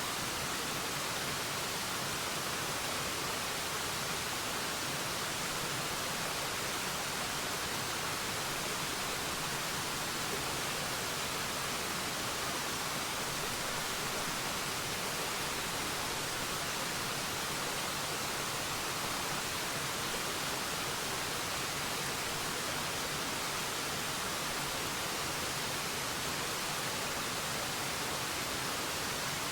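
Waterfall rushing steadily: an even, unbroken hiss of falling water with no changes.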